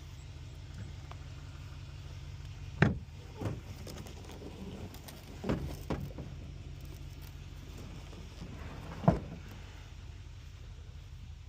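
Five sharp knocks and bangs, the loudest about three seconds in and near the end, from the pedal boat and its gear being handled and loaded, over a steady low hum.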